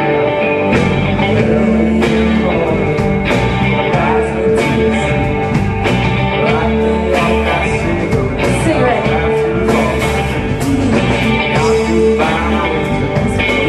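Live rock band playing, electric guitar to the fore over a steady beat.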